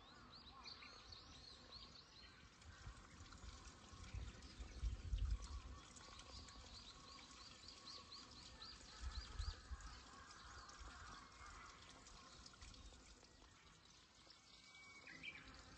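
Quiet garden ambience: a small bird sings quick runs of high, repeated chirps near the start and again from about five to nine seconds in. Two brief low rumbles on the microphone come about four and nine seconds in.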